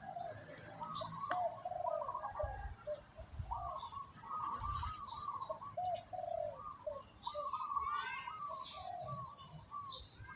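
Birds calling and chirping continuously, many short warbling notes overlapping, with a few dull low thumps a few seconds in.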